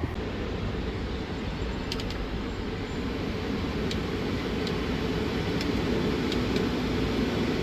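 Semi-truck cab air conditioner blower running with the engine off, a steady rushing fan noise that grows a little louder, with a few faint clicks.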